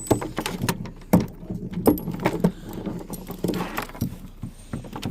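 Irregular metallic jangling and sharp clicks of dog collars and their buckles being handled.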